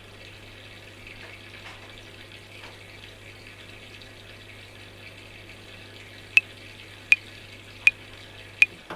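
Washing machine running: a steady whirring, watery noise over a low hum, which stops shortly before the end. About six seconds in, metronome clicks begin at 80 beats a minute, four clicks, louder than the machine.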